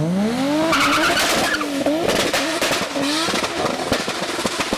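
Performance car engine driven hard, its pitch climbing and dropping several times as it revs through gear changes, with many sharp crackles and a burst of hiss about a second in.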